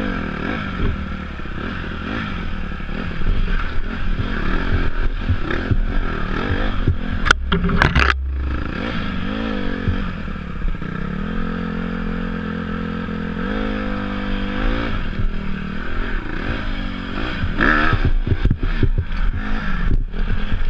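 Dirt bike engine running and revving up and down while riding off-road, with clatter and scraping from the bike and a few sharp knocks about seven to eight seconds in.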